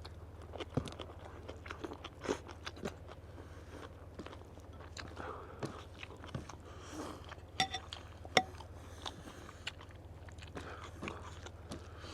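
Close-miked chewing and biting of food, with many short irregular crunches and clicks, two sharper ones a little past the middle, over a steady low hum.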